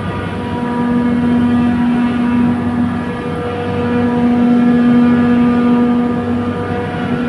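Trane chiller compressor running: a steady, loud machine hum with a strong pitched tone and overtones that swells and fades slightly every few seconds. This is the abnormal noise at the compressor's discharge valve side.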